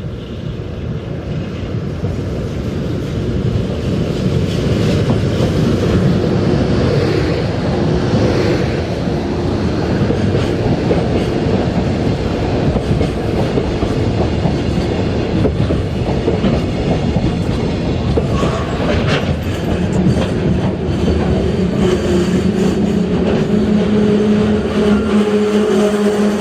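Freight train rolling past close by, its wagons' wheels clattering over the rail joints. The noise builds over the first few seconds and then holds steady, and a steady droning tone joins in near the end.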